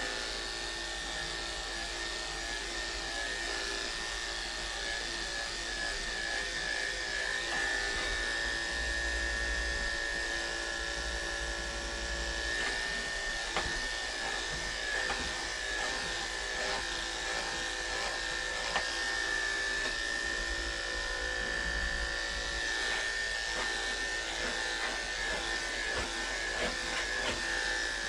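Andis electric pet clippers running steadily as they cut through matted cat fur, a constant high buzz with a few faint clicks.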